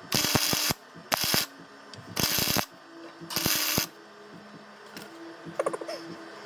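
MIG welder arc crackling and spitting in four short bursts, each about half a second, as short welds are laid on a rusty steel exhaust pipe. A faint steady hum fills the gaps between bursts.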